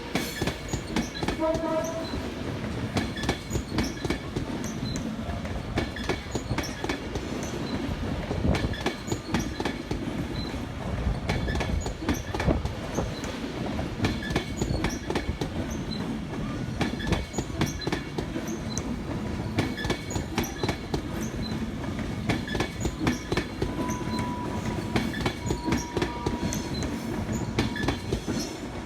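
A train passing close by, its wheels clattering over the rail joints in a dense, rapid run of clicks. A short faint tone sounds near the start and again near the end.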